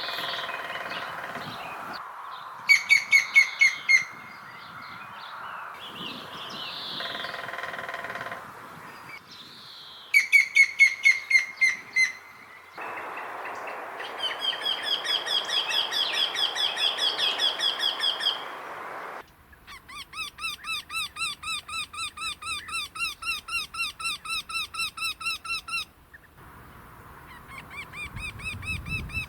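Wild birds calling in a series of separate recordings cut together. Each call is a run of evenly repeated pitched notes: two short, fast bursts early on, then longer runs of a few seconds each, one of them slower and lower-pitched.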